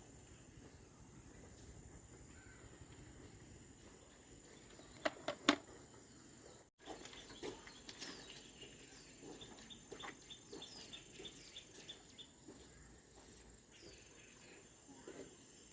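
Quiet outdoor ambience with a steady high insect drone. A few sharp knocks come about five seconds in, followed by a run of short bird chirps repeated several times a second.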